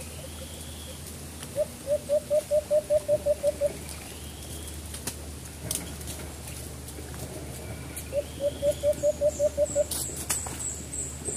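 Bird calls: a quick series of about a dozen low hooting notes, growing louder, given twice, over thin rising whistles from another bird. A few sharp clicks come near the end.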